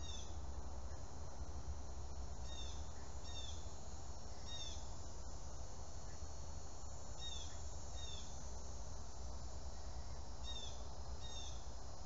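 Bird calling: short falling chirps, mostly in pairs, repeating every two to three seconds over a steady low hum and soft outdoor background noise.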